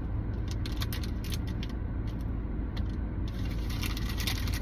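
Plastic snack-bag packaging crinkling and crackling as it is handled, in scattered short crackles over a steady low rumble.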